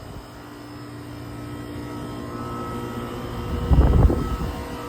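2008 Goodman GSC13 3-ton central air conditioner condensing unit running: a steady compressor and condenser-fan hum that grows gradually louder, with a brief louder rumble about three and a half seconds in. The unit is working and cooling, its suction line ice cold.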